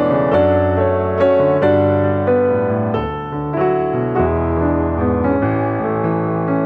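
Background piano music: slow, gentle melody over sustained chords and a bass line.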